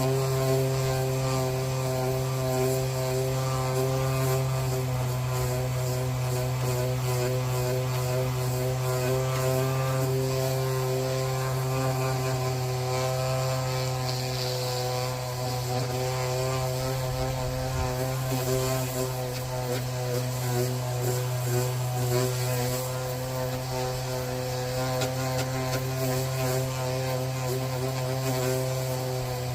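Steady machine hum from a running motor, holding one pitch throughout with no change in speed.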